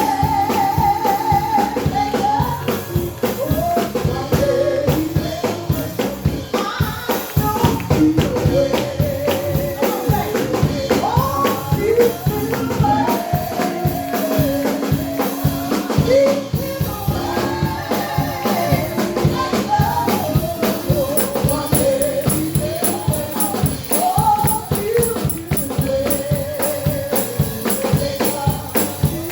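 Gospel praise music: a singing voice over a fast, steady beat with tambourine.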